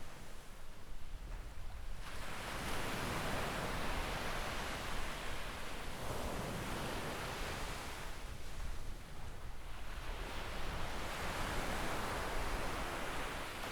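Gentle waves washing up a sandy beach: the hiss of the surf swells about two seconds in, eases off for a moment and swells again near the end.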